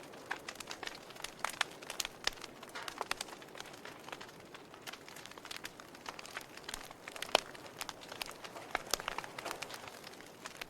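Wood fire crackling: irregular sharp pops and snaps over a soft hiss, with one louder pop about seven seconds in.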